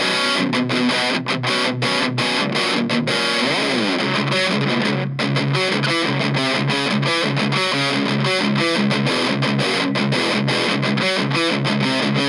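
Electric guitar through a Kokko KH8 high-gain distortion pedal playing a metal riff, with the pedal's mid-boost 'scoop' knob at about nine o'clock. It starts with short chugged stabs, slides down in pitch about four seconds in, then plays fast picked notes.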